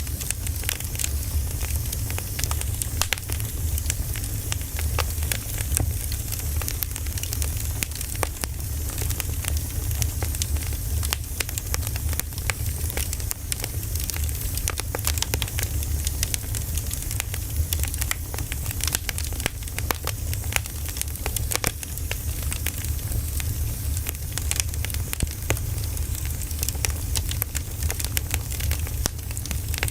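Burning firewood crackling and popping in dense, irregular snaps over a steady low rumble.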